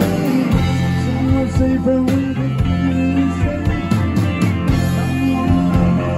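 Live rock band playing a loud, continuous passage.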